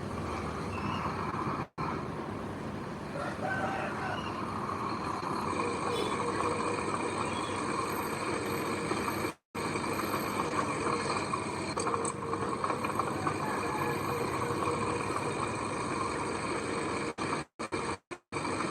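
Diesel engine of heavy earthmoving machinery running steadily, cut off abruptly for an instant about two seconds in, near the middle, and several times near the end.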